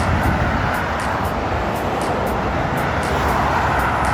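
Heavy lorries passing on a road: a steady rumble of diesel engines and tyre noise, with no horn.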